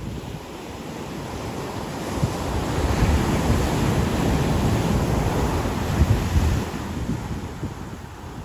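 Ocean surf breaking on a beach: a wave builds a couple of seconds in, washes loudly for a few seconds, then falls away. Wind buffets the microphone throughout.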